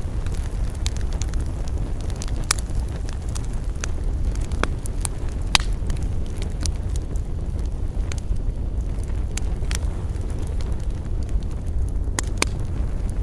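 Wood fire crackling, with irregular sharp snaps and pops over a steady low rumble.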